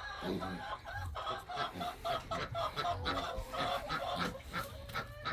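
Chickens clucking, many short calls in quick succession.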